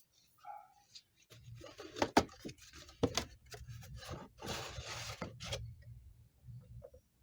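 Handling noises: a run of clicks and scraping, with two sharp knocks about two and three seconds in, then a rustling stretch that dies away about a second before the end.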